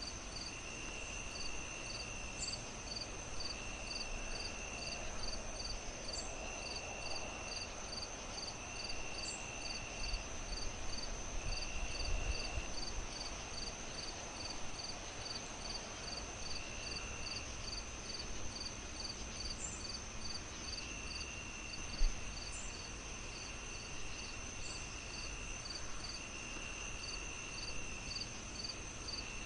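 Crickets chirping steadily: a rapid chirp repeating about three times a second, a lower trill coming in phrases of a second or two, and a constant high insect tone, over a soft low hiss. Once, about three-quarters through, a single sharp pop from the fire.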